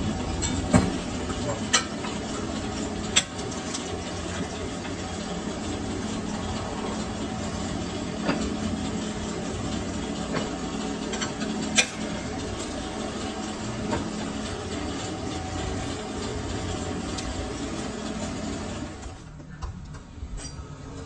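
Lathe running with a steady hum, with a few sharp metallic clicks; the hum dips near the end.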